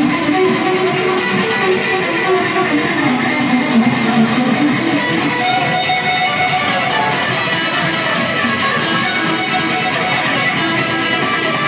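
Live rock band playing an instrumental passage, electric guitar to the fore over bass, with no singing.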